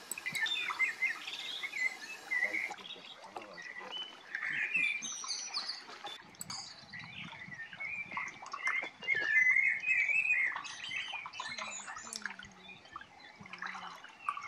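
Birds chirping and calling: a busy run of many short, overlapping calls.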